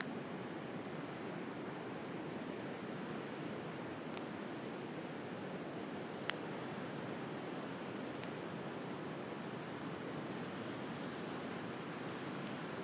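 Steady wash of sea surf with a wood fire crackling over it: a few sharp pops, the loudest about six seconds in.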